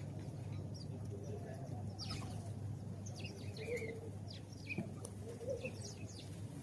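Sparrows chirping in quick, scattered chirps, with a dove giving low coos twice, over a steady low hum.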